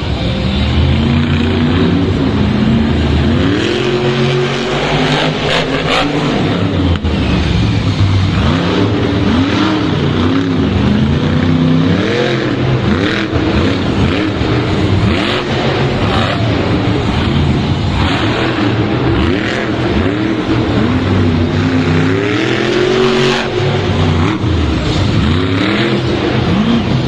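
Monster truck engines revving hard, the pitch climbing and dropping again and again with the throttle, with a few sharp cracks about five to six seconds in.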